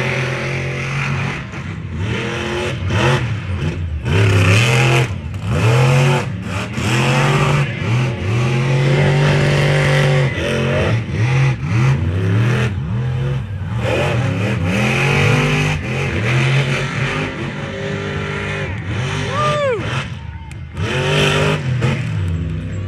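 Monster truck engines revving hard and racing, their pitch repeatedly rising and falling as the throttle is opened and lifted.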